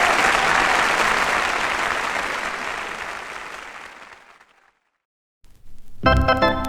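Audience applause fading out over about four and a half seconds, then a brief silence. Organ music starts with sustained chords about six seconds in.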